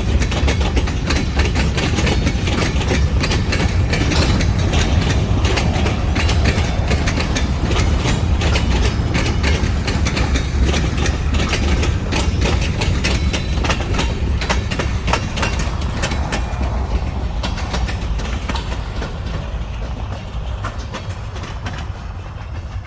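Freight train rolling past, with a heavy low rumble and steel wheels clicking and clacking over the rail. The sound fades over the last few seconds as the train moves away.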